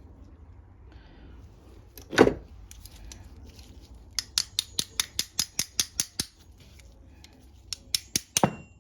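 Hand work on a small lawn-mower carburetor: a knock about two seconds in, then a run of sharp, evenly spaced metallic clicks, about six a second for two seconds, and a few more clicks near the end.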